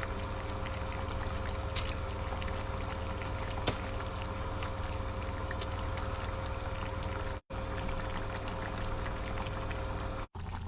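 A pot of chicken stew simmering, a steady bubbling with a faint steady hum beneath it. The sound cuts out briefly twice.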